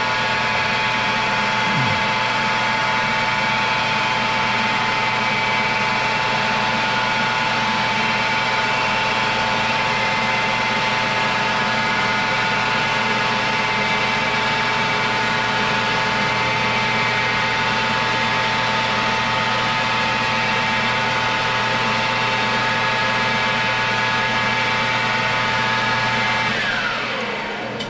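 Metal lathe running under power with a steady gear whine over a low hum, taking a turning pass; it winds down near the end as the spindle stops.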